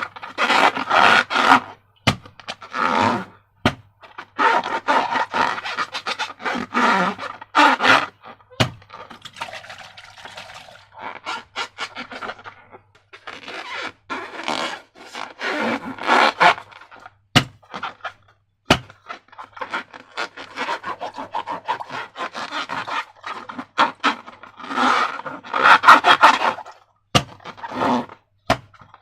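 Slime being handled and mixed: irregular sticky scraping and squishing, broken by sharp clicks and short pauses.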